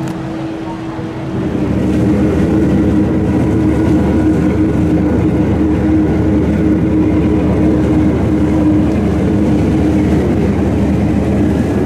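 Steady low engine drone with a held hum, getting louder about a second and a half in.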